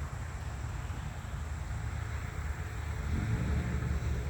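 Low rumble of wind on the microphone, with a steady low engine hum from a vehicle coming in about three seconds in.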